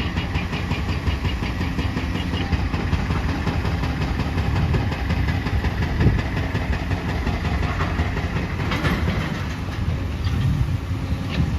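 Heavy demolition excavator at work breaking up reinforced concrete: a steady diesel engine rumble with rapid rhythmic clattering and a sharp knock about six seconds in.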